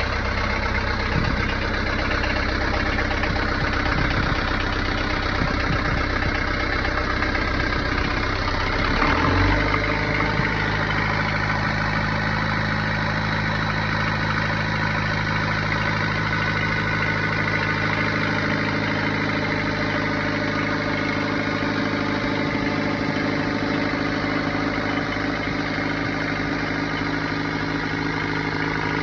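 Boat engine running steadily after repairs; about nine seconds in its speed changes with a brief rise in level, then it settles into a steady run at the new speed.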